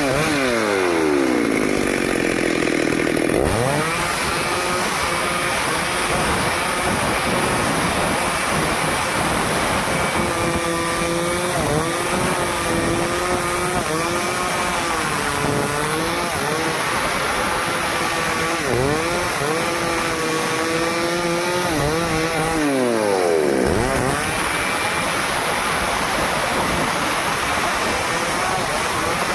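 Stihl two-stroke chainsaw cutting teak wood, the engine running at high revs with its pitch sagging and recovering again and again under the load of the cut. The revs fall away over the first few seconds and jump back up, and dip deeply once more about 23 seconds in before rising again.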